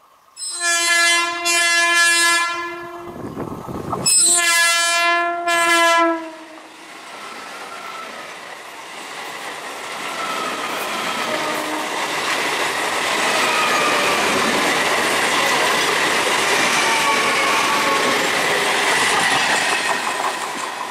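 Indian Railways ICF EMU local train sounding its horn in two long blasts. Then the train runs past with a steady rumble and clatter of wheels that builds up and holds, with faint squealing from the wheels on the curve.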